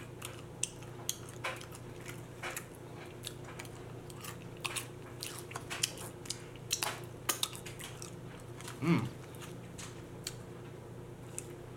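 Close-miked chewing of chicken wings: wet mouth clicks and smacks scattered throughout, with a brief hummed vocal sound about nine seconds in. A steady low hum runs underneath.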